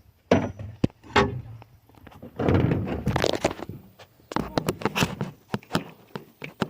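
Handling noise close to the microphone: a series of knocks and thumps mixed with stretches of rustling and scraping, loudest about halfway through.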